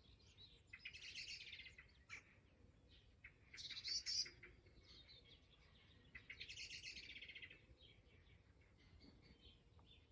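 Quiet songbird singing: three short, high, rapid trilled phrases a few seconds apart, with faint scattered chirps between them.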